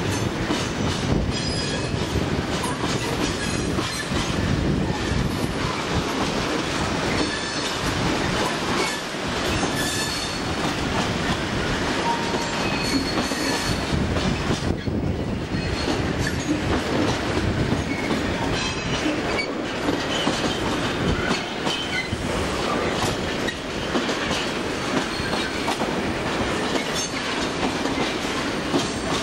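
A freight train of rail tank wagons rolling past, the wheels clattering steadily over the rail joints, with short high-pitched wheel squeals now and then.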